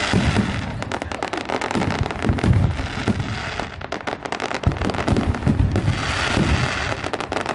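Fireworks going off: a dense, continuous run of rapid bangs and crackles.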